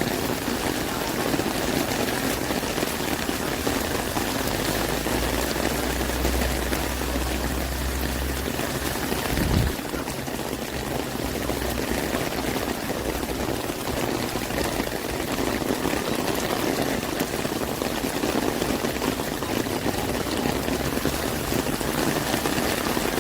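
Heavy rain falling and splashing in a steady hiss. A low rumble sits under it for a few seconds in the middle and ends in a brief louder burst.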